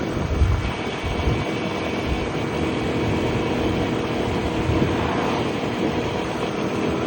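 Piaggio Liberty 125 scooter's single-cylinder four-stroke engine running at a steady pace while riding, over a broad rush of wind and road noise.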